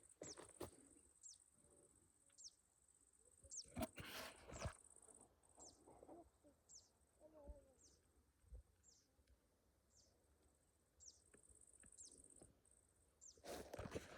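A small bird repeating a thin, high call that slides downward in pitch, about once a second, over a faint high-pitched insect buzz that comes and goes. A couple of sharp knocks sound about four seconds in.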